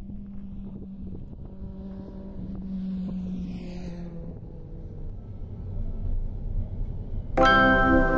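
A car driving, its engine and road noise a steady low drone and rumble with wind noise on the microphone. Music with held, ringing notes starts suddenly near the end.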